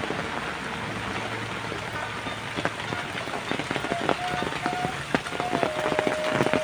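Steady rain falling, with many sharp clicks of drops striking nearby surfaces. A thin, held tone comes and goes in the second half.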